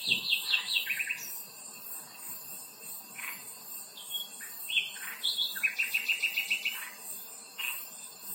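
Songbird singing outdoors: a rapid trill right at the start and another from about five to seven seconds in, each stepping down to a lower pitch partway, with a few single chirps between. A faint, evenly pulsing high insect buzz runs underneath.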